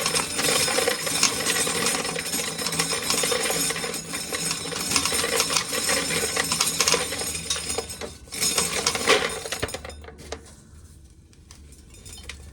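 Shelled dry corn kernels clattering and rattling against metal as a corn sheller runs, a dense hail of small hard clicks that dies down about ten seconds in.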